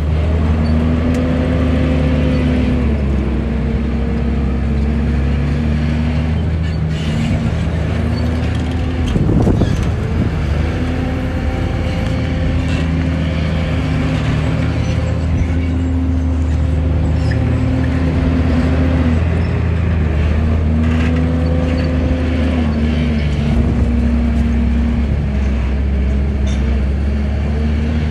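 Heavy diesel engine of earthmoving machinery working under load, its pitch rising and falling every few seconds as it revs, with a brief louder rumble about nine seconds in.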